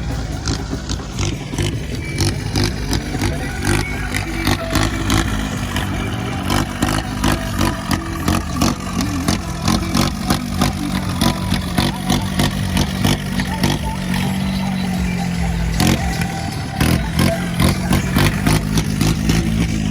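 Farmtrac 4x4 tractor's diesel engine running steadily, with a rhythmic beating of knocks over it.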